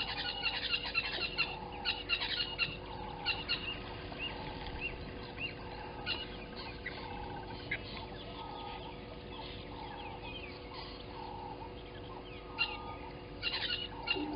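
Wild birds calling: clusters of sharp, high chirps, busiest in the first few seconds and again near the end, over a short, lower call that repeats about once a second.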